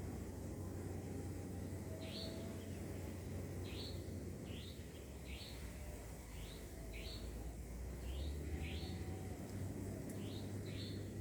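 A bird calling a rapid series of short, sharp, high chirps, beginning about two seconds in, over a steady low rumble.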